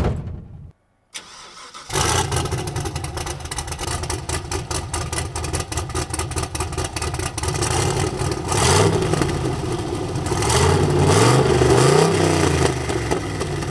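A car door shuts, then about two seconds in the Nova's turbocharged 6.0-litre LQ4 Vortec V8 starts and idles. In the second half it is revved several times, the pitch rising and falling with each blip.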